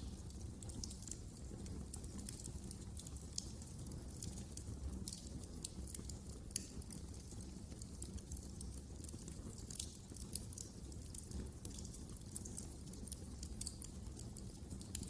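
Wood fire crackling in a fireplace: frequent irregular sharp snaps and pops over a low, steady rumble of burning.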